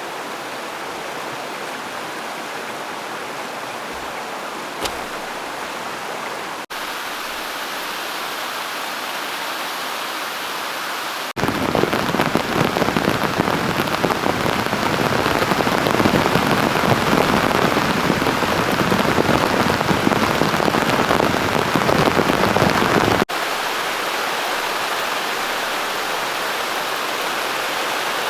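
Steady rain falling, in several abruptly cut clips, loudest through a stretch of about twelve seconds in the middle; the opening seconds are a softer, even rush, like flowing river water.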